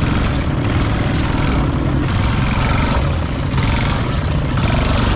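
ATV engine running steadily under load, loud and close, with a brief dip in level around the middle.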